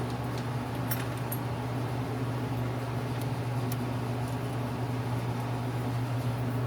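Steady low hum of a running shop machine motor, with a few light clicks of small metal lathe tool bits being handled in the first second and a half.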